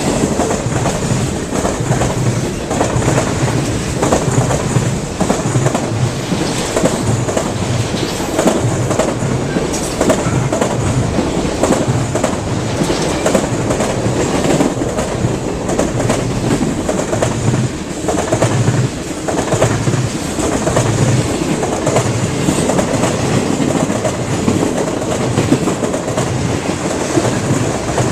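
Train cars rolling past close by, the wheels beating a steady clickety-clack over the rail joints about once a second, over continuous rolling noise.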